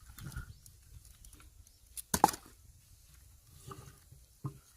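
A log splitting under a hard blow: one sharp crack of wood about two seconds in, with a smaller knock near the end.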